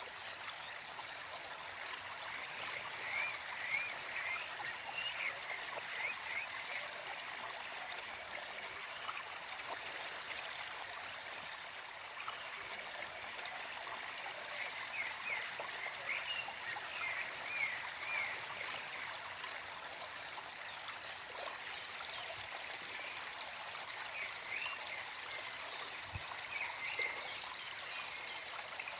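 Small forest stream flowing and trickling steadily. Over it a bird sings a short run of quick repeated chirping notes three times, about 3, 15 and 26 seconds in, with a few faint high peeps between.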